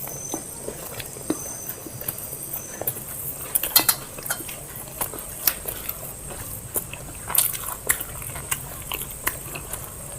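Eating sounds of biryani being eaten: close-up chewing and wet mouth clicks at an irregular pace, with occasional clinks against a plate.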